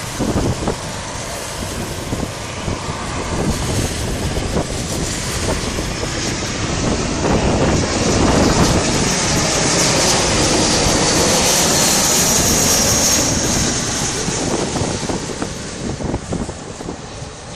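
Jet airliner passing low overhead on final approach: engine noise swells to a peak with a high whine about eight to thirteen seconds in, sliding in pitch as it passes, then fades away.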